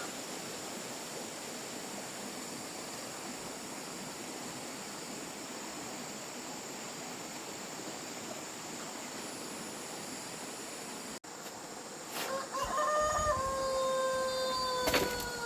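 Steady high-pitched insect chirring, then about three-quarters of the way through a rooster crows once, a long held call that falls slightly in pitch at its end, with a couple of sharp clicks near the end.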